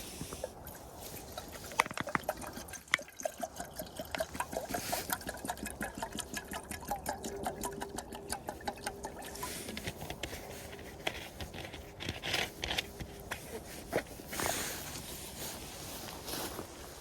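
Campfire crackling with a pot of water heating over it for tea: dense irregular snaps and pops, with a faint steady hiss-like tone for a few seconds in the middle.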